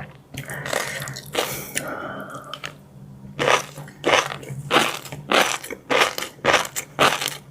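Close-miked chewing of crunchy food. After a softer, continuous scraping sound in the first few seconds, steady crunching bites come about every half second to the end.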